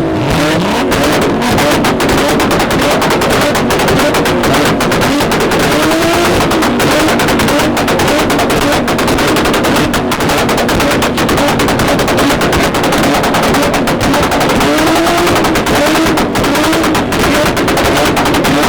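Two cars, a Nissan Z and a fourth-generation Toyota Supra, revving hard at the same time, their engines sweeping up and down in pitch over and over, with a rapid crackle of sharp pops from the exhausts throughout.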